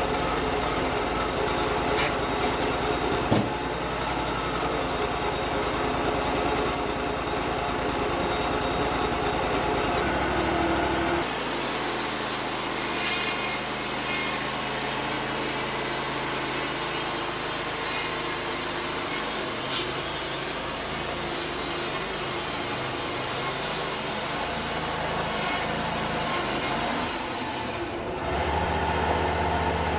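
Engine of a bandsaw sawmill running steadily, then for a long stretch in the middle the blade sawing through cedar with a harsh high hiss over the engine, which drops back to plain engine running near the end.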